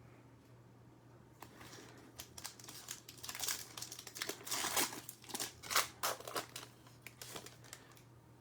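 Plastic wrapper of a Select Football trading-card pack crinkling and tearing as it is opened, a run of irregular crackles starting about a second and a half in and fading near the end.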